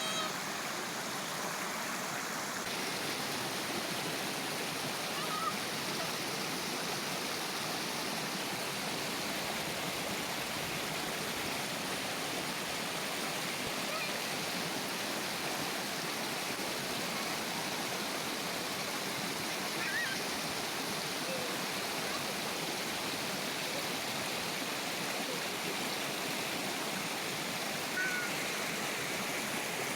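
River water flowing and babbling steadily over rocks, with faint distant children's voices now and then.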